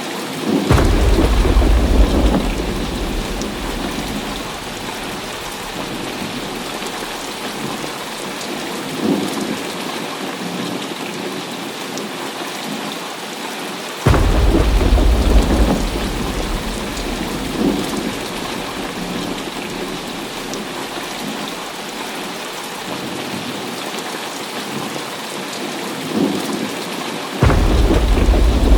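Heavy rain falling steadily in a thunderstorm, with thunder: three sudden loud claps, about a second in, halfway through and near the end, each rolling off into a deep rumble over a few seconds, and fainter rumbles between them.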